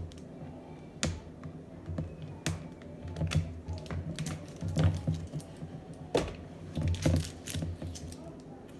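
Irregular clicks, taps and knocks from a plastic powder tub and scoop being handled while a pre-workout drink is mixed.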